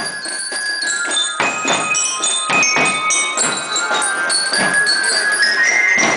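Marching band music: drum beats roughly twice a second under high, ringing bell-like tones.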